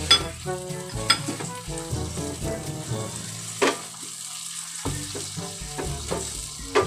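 Chicken pieces sizzling as they fry in oil and butter in a frying pan, stirred with a wooden spatula that knocks sharply against the pan four times. Background music plays underneath.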